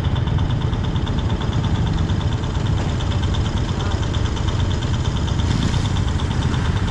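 Road vehicle engines idling steadily with a low rumble, joined by a fast, high-pitched pulsing tone.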